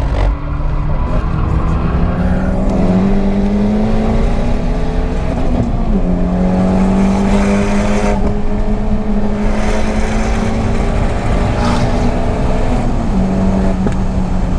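Turbocharged Fiat Panda 100HP engine, fitted with a big Mitsubishi TD04 turbo, pulling hard under full throttle. Its pitch climbs slowly through each gear and drops sharply at upshifts, about six seconds in and again near the end.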